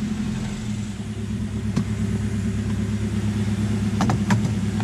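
Mazda Miata's inline-four engine idling steadily just after starting, with a few light clicks over the idle.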